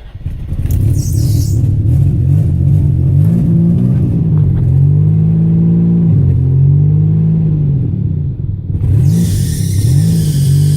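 1999 Nissan Maxima's V6 engine catching just after a hard start and running unevenly, its speed rising and falling every second or two. The owner takes it to be misfiring. A steady hiss joins near the end.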